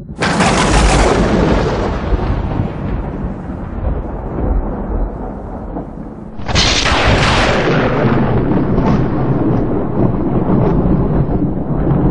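Two thunderclaps: one at the very start and another about six and a half seconds in, each beginning with a sudden loud crack and rolling on as a long low rumble.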